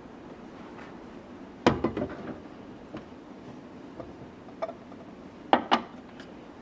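Hard kitchen containers being handled and set down: a short clatter of sharp knocks about one and a half seconds in, a light tap later, and two sharp knocks close together near the end.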